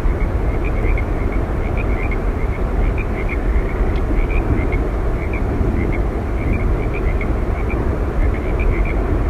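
Steady roar of Yosemite Falls' falling water, with short high chirps repeating a few times a second over it.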